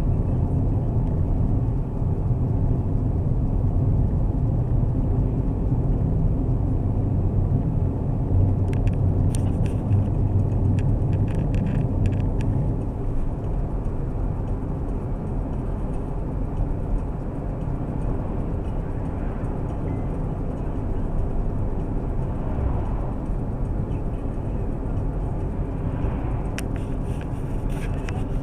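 Steady low vehicle rumble, with a few faint clicks about nine to twelve seconds in and again near the end.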